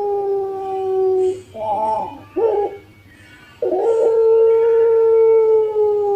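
Puter pelung dove, a contest-bred Barbary dove, cooing: a long drawn-out note that slowly falls in pitch, breaking about a second and a half in into a few short wavering coos and a brief pause, then a new long held note from nearly four seconds in that again sinks slowly.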